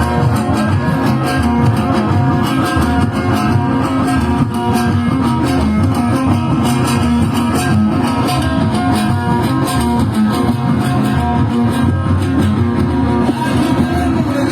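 Loud instrumental band music led by guitar, with bass and a steady beat.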